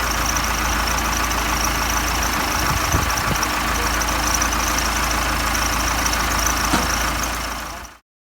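Case 580 backhoe's engine running steadily, then cutting off abruptly near the end.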